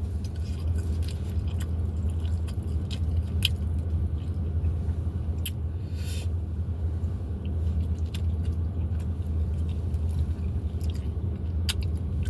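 Close-up chewing and mouth sounds of someone eating, with scattered small clicks, over a steady low rumble.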